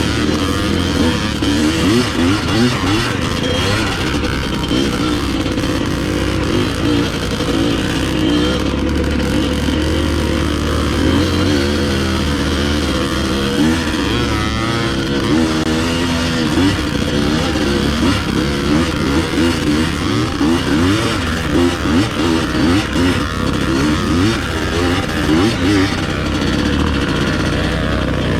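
Dirt bike engine running without a break, its revs rising and falling as it is ridden.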